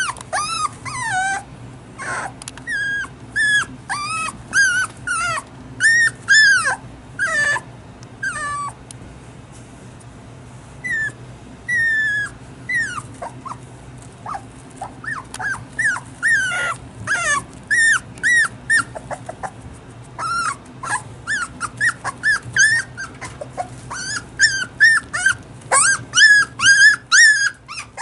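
Toy poodle puppy, about six weeks old, whining and crying over and over in short high-pitched cries that rise and fall in pitch. The cries pause briefly about a third of the way in, then come quicker and closer together toward the end.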